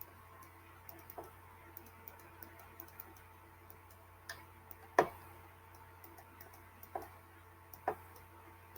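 Faint, irregular ticks and clicks, a few scattered over several seconds, with one louder click about five seconds in, over a low steady hum.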